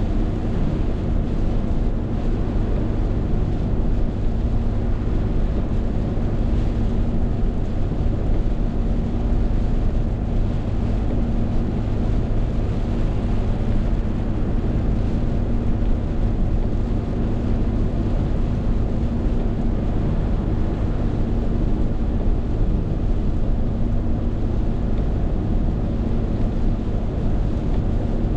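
Steady roar of a rainstorm, with wind buffeting the microphone and a steady low hum underneath.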